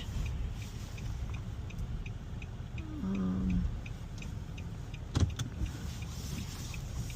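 Car's turn-signal flasher ticking steadily about twice a second over the low running rumble inside the car while parking. A brief low tone sounds about three seconds in, and a single sharp knock about five seconds in.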